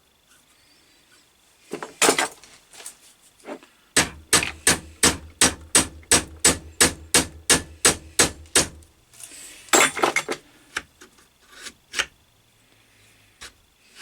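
Hammer tapping on the steel finger of a lathe steady rest to work it free. A steady run of about twenty quick taps, roughly four a second, comes between a few single knocks.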